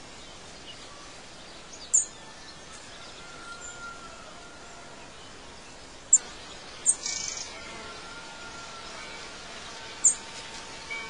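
Outdoor nature ambience: a steady hiss with four short, sharp, high bird chirps spread out, and faint longer whistled notes underneath.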